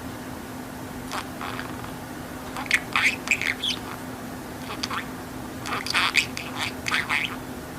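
Budgerigar chattering: two bursts of quick, high chirps and squawks, about three seconds in and again around six to seven seconds, over a steady low hum.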